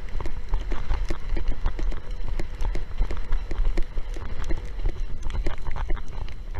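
Strong wind rumbling on the microphone, with a rapid, irregular clatter of knocks and slaps as a windsurf board bounces over choppy water.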